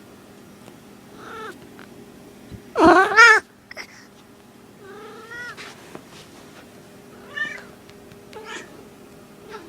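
A small female cat in heat calling: a string of meowing calls, with one much louder, drawn-out call about three seconds in and softer, shorter ones around it.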